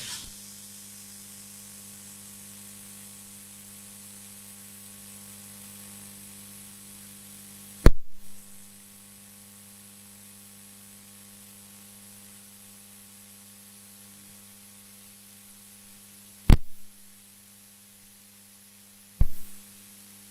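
Steady electrical hum with faint hiss, broken by three sharp knocks about 8, 16 and 19 seconds in.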